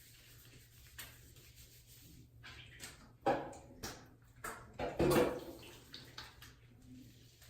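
Water splashing in a bathtub in a few short, irregular bursts around the middle, the loudest just past the middle, over a steady low hum.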